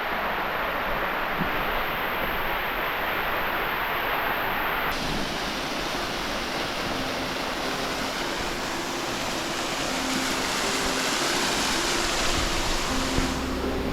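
Waterfall water rushing steadily. The sound shifts abruptly about five seconds in, becoming brighter.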